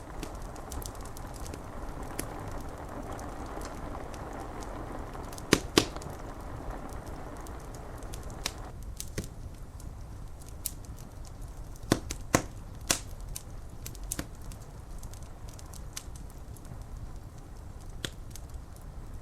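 Wood fire crackling, with frequent sharp snaps and a few loud pops, over a low steady rumble. A rain hiss underneath drops away about halfway through.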